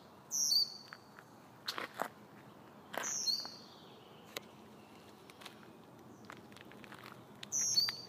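A bird calling three times: short, high-pitched calls a few seconds apart, over faint scattered clicks and crackles.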